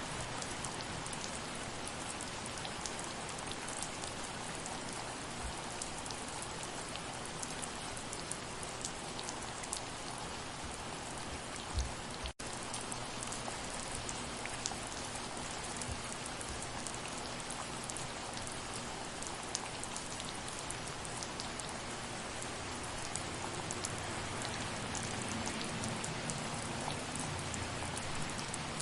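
Steady gentle rain, a dense hiss of drops with individual drops ticking through it. About twelve seconds in there is a soft low thump, then a split-second dropout in the sound.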